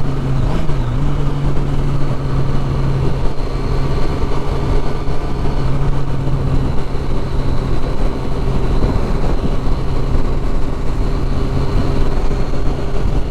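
Triumph Street Triple 675's three-cylinder engine with its loud exhaust, running at a steady cruise while riding. The note dips briefly in pitch about half a second in, then holds steady.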